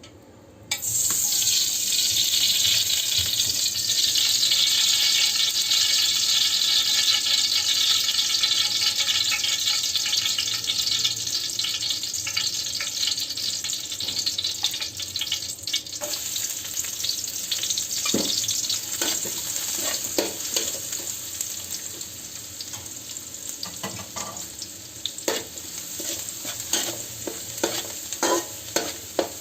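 Ingredients hit hot oil in a pan and sizzle loudly, starting suddenly about a second in. The sizzle eases over time, and from about halfway a spatula scrapes and clicks against the pan as the stir-fry is stirred.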